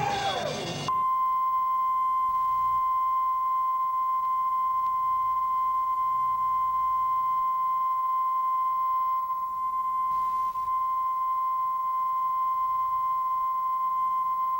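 Band music cuts off about a second in, replaced by a single steady, unbroken test tone of one pitch.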